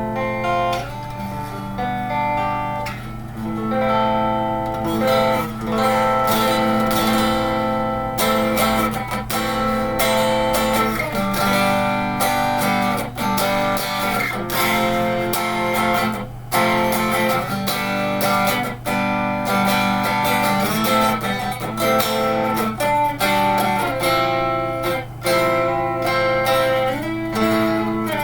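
1987 Fender electric guitar, freshly restrung with Yamaha 009–042 super light gauge strings, played through an old Fernandes amp: a continuous run of picked single notes and chords, with a steady low hum underneath.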